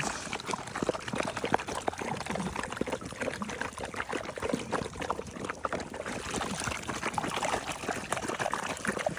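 Water pouring and trickling, with many small irregular splashes.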